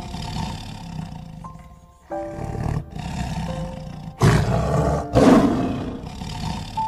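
Tiger growling and roaring, with two loud roars about four and five seconds in, over background music with held notes.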